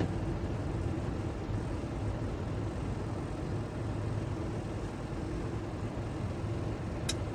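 Steady low hum of a car's engine and road noise heard from inside the cabin, with one short click near the end.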